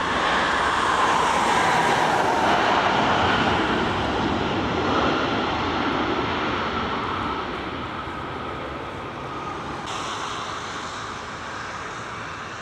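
Jet airliner engines passing close by: a loud rushing noise with whining tones that fall in pitch as it goes past, then fading away.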